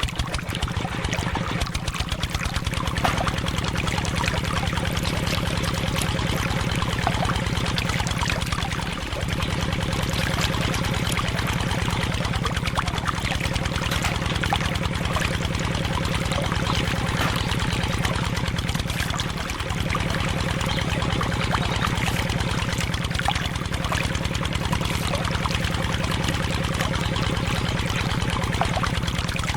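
Small motor running steadily with a rapid, even putter while water pours and trickles from the miniature motor-driven water pump.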